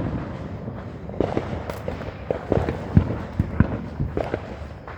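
Fireworks going off: a scattered run of sharp pops and cracks at irregular spacing, the loudest about three seconds in.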